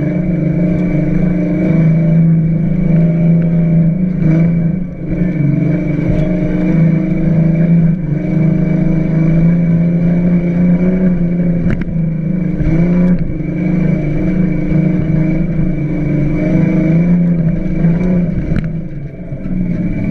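1989 Ford Ranger prerunner's engine running hard while the truck is driven, its pitch rising and falling with the throttle, easing off briefly about five seconds in and again near the end. A few sharp knocks or rattles come through along the way.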